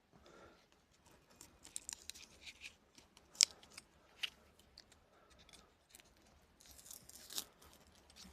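Birch bark being peeled and torn from a birch trunk for tinder: scratchy tearing and rasping in two stretches, with a few sharp snaps between them.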